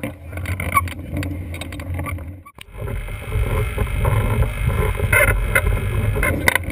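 Blokart land yacht rolling fast over airfield pavement: a steady low rumble of wind and wheels on the microphone, with frequent small rattles and clicks from the kart. The sound drops out briefly about two and a half seconds in, then comes back louder.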